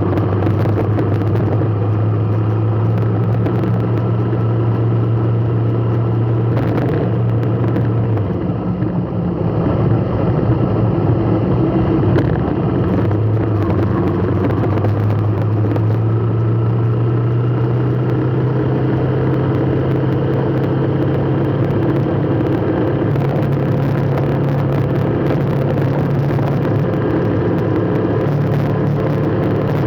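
Motor vehicle engine running steadily with a low hum. Its note dips about eight seconds in and climbs back over the following several seconds as the engine eases off and picks up again.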